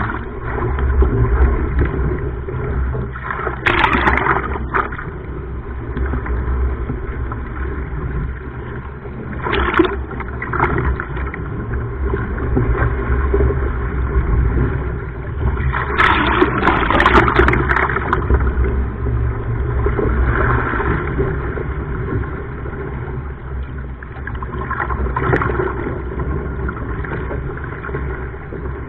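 Water sloshing and splashing around a surfski at sea over a steady rumble of wind on the camera microphone, with a few louder splashes spread through.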